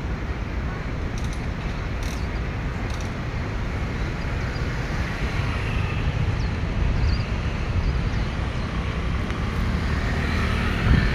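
Steady road traffic noise: a continuous low rumble with hiss.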